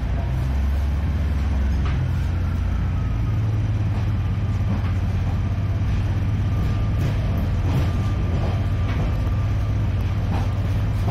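Diesel multiple unit running along the line, heard from inside the passenger saloon: a steady low engine drone whose note rises slightly about three seconds in, with occasional clicks from the wheels.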